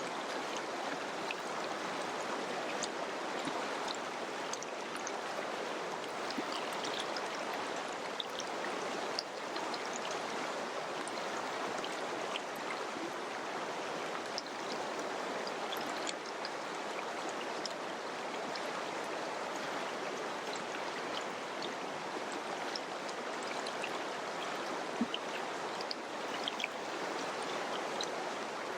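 Mountain river rushing over rocks: a steady wash of flowing water with small splashes and drips scattered through it.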